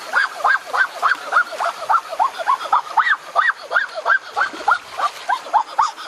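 An animal giving a fast run of short, rising honk-like calls, about three to four a second.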